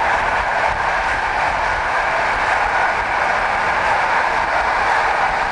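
Steady running noise of a passenger train travelling at speed, heard from on board: an even rushing and rumble with no clear clicks of rail joints.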